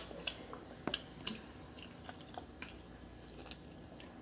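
Close-up eating sounds from a seafood boil: wet chewing and lip smacks, with a cluster of sharp clicks in the first second and a half, then only a few faint ones.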